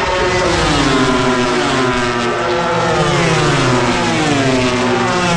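MotoGP racing motorcycle engines at high revs. The pitch falls and then climbs again twice, as the bikes brake and accelerate.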